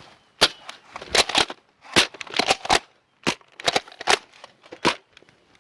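A plastic Nerf blaster being worked and fired: an irregular run of about a dozen sharp plastic clacks and pops, several in quick pairs.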